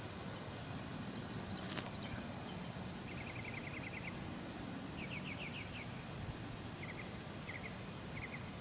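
Steady outdoor background hiss with high chirping from a small animal: two rapid runs of about ten pulses a second, then short chirps of two or three pulses repeating about every half second. A single sharp click comes about two seconds in.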